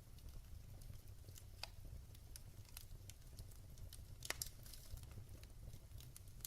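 Wood fire in a fireplace crackling quietly: scattered small pops and snaps at irregular intervals, with one sharper pop about four seconds in, over a low steady rumble.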